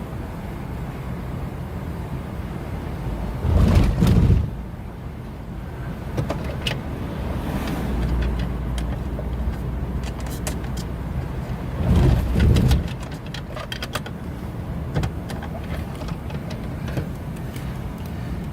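A car driving, heard from inside: steady road and engine noise, with two loud low rumbling bursts, one about four seconds in and one about twelve seconds in, and scattered light clicks near the end.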